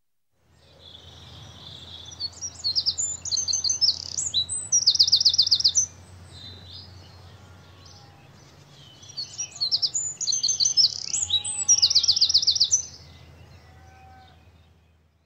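Birdsong: two long phrases of high chirps and fast trills, the first about a second and a half in and the second after a short lull, over a low steady hum.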